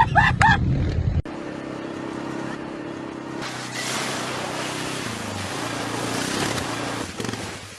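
A motor vehicle's engine running, loud with shouting at first, then cutting abruptly about a second in to a steadier, quieter engine note. A rushing hiss joins about three and a half seconds in, and the sound fades near the end.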